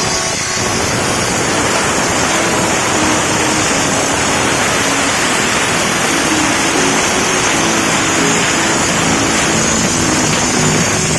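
A steam-wash nozzle sprays with a steady, loud hiss. Background music with short low notes plays faintly underneath.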